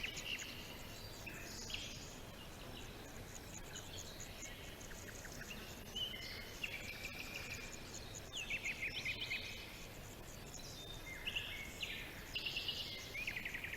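Several small songbirds chirping and singing with quick trills and short calls, overlapping one another over a faint steady background hiss, with the busiest bursts of song after the middle and near the end.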